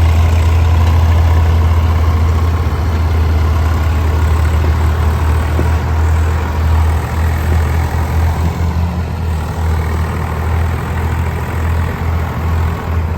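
Tractor's diesel engine running steadily with a deep low hum, wavering slightly in level in the second half.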